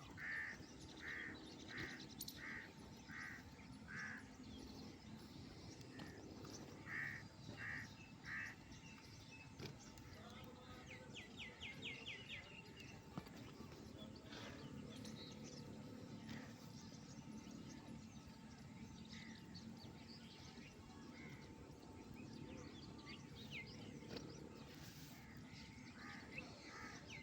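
Crows cawing faintly in short, evenly spaced runs: six caws at the start and three more about seven seconds in. Small birds chirp and trill in between.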